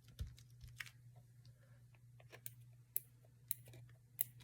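Faint, scattered clicks and taps of paper and craft supplies being handled and pressed down on a work table, about half a dozen over a few seconds, over a low steady hum.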